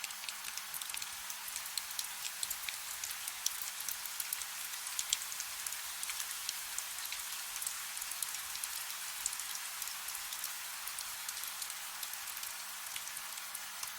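Soft steady rain, a fine hiss with many small scattered drop ticks, under a faint low steady hum.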